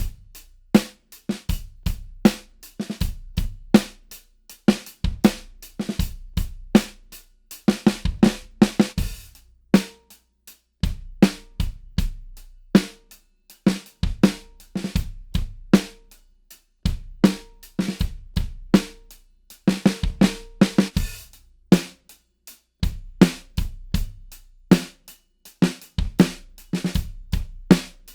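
A drum kit played in steady grooves around a Sovrn Drum Co. 6.5-inch maple snare drum: kick drum, a snare backbeat with a ringing tone, and hi-hat. The grooves come in phrases of about six seconds broken by short pauses, with a cymbal wash twice.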